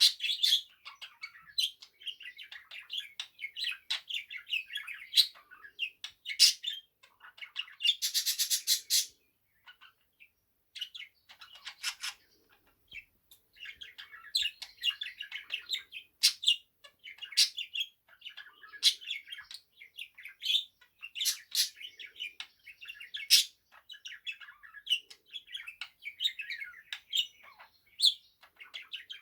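Budgerigar warbling, a run of chattering trills broken by sharp high chirps, with a loud buzzy burst about eight seconds in and a short pause soon after.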